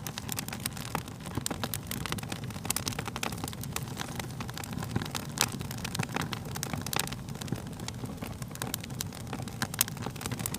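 Wood fire burning, with a steady low rumble of flames and frequent irregular sharp crackles and pops.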